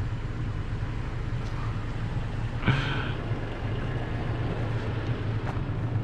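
A 4x4's engine idling steadily, with one short sharp higher-pitched sound about two and a half seconds in.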